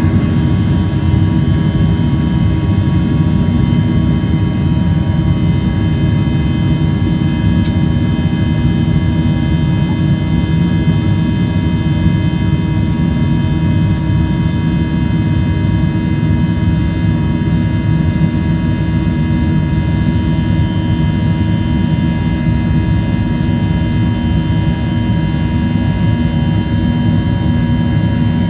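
Boeing 737 turbofan engines at high takeoff thrust, heard inside the cabin as a steady, loud buzz made of many held tones over a deep rumble. This multi-tone buzz is typical of fan-blade tips turning faster than sound at high power, known as buzzsaw noise.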